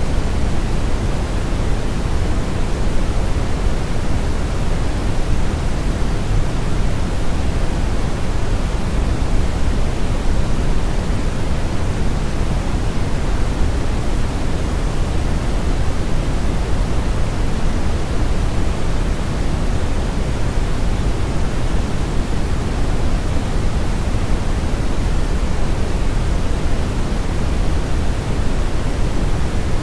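Steady synthetic brown noise: an even, unbroken hiss-like rumble weighted heavily toward the low end, with the highs rolled off.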